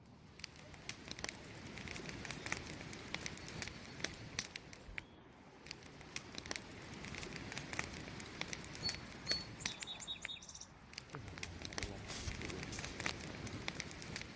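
Wood campfire burning, with frequent sharp crackles and pops over a soft hiss. A few short, faint high chirps sound about nine to ten seconds in.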